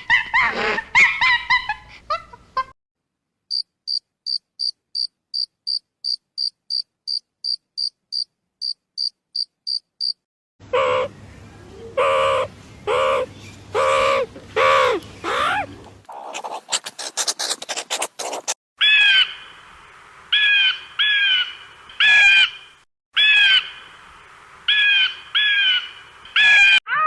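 A sequence of different animal calls edited one after another. The longest is an even run of short, high, cricket-like chirps, about three a second. It is followed by pitched, bending calls, a brief rapid rattle, and repeated short birdlike calls that sweep downward.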